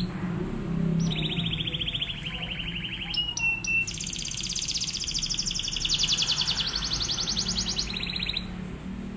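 Domestic canary singing in fast drill-like trills of rapidly repeated notes. A roll of about two seconds is followed by a few short whistled notes and then a long trill of several seconds.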